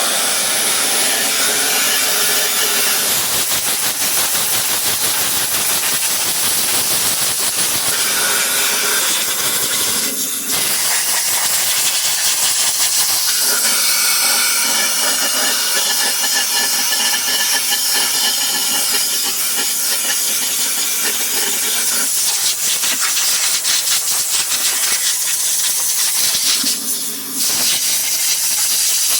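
Compressed-air blow gun blasting dog hair and dirt out of a clogged vacuum cleaner: a loud, steady hiss of air, broken briefly twice, about a third of the way in and near the end.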